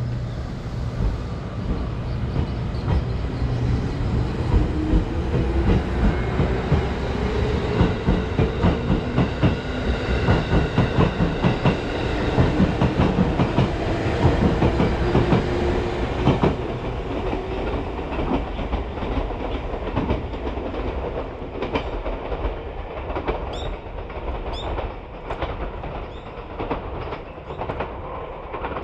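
JR Kyushu 787 series electric train pulling out and accelerating past, its motors whining with a pitch that rises as it gathers speed, and its wheels clattering rhythmically over rail joints as the cars go by. The sound drops away after about sixteen seconds as the last car passes and the train recedes.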